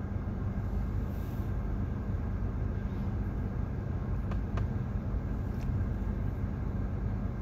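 Steady low rumble inside a car's cabin, the engine idling while the car stands in traffic.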